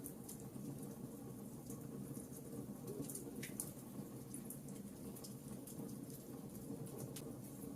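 Wood fire burning in a fireplace: irregular small snaps and pops of crackling logs over a low, steady rush of the flames.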